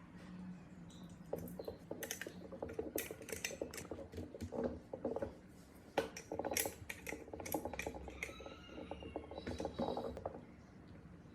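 Small metal parts and hand tools clicking and rattling as they are handled, in quick irregular runs of light clicks over a faint low hum.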